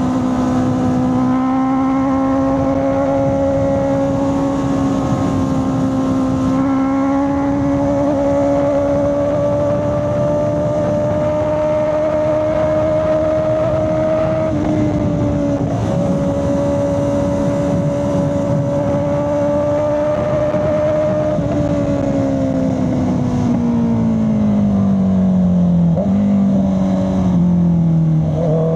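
Honda CB650R's inline-four engine running hard at high revs, its pitch holding and slowly climbing. In the last several seconds the revs fall steadily as the bike slows, then pick up again right at the end.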